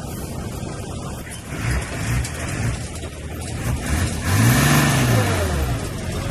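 Diesel engine of earthmoving machinery running steadily, revving up and dropping back twice, the second rise about four seconds in being the louder, with a rush of noise over it.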